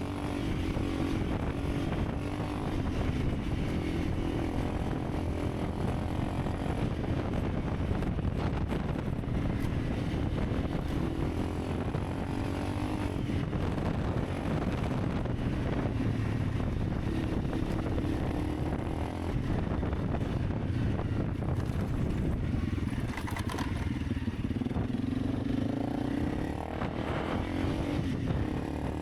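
Honda CRF300 Rally's single-cylinder four-stroke engine running steadily while riding, its note rising and falling with the throttle.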